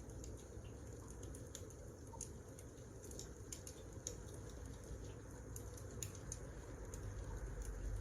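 Wood fire crackling: irregular small pops and snaps over a soft low rumble of burning logs.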